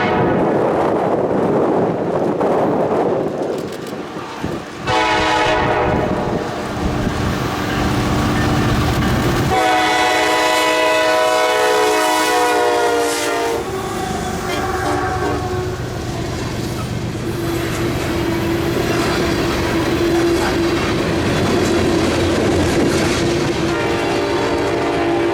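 Freight locomotive air horn, a Nathan K5LLA on a BNSF SD70ACe, sounding a short blast, a long blast whose pitch sags slightly, and another short blast near the end. Between the blasts the train rumbles along the rails, with wind on the microphone at first.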